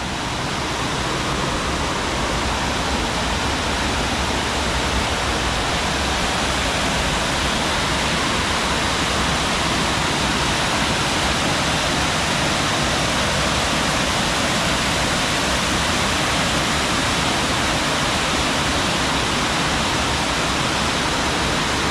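Double Decker Falls, a sandstone waterfall on the Chagrin River, rushing with a loud, steady wash of falling water close by.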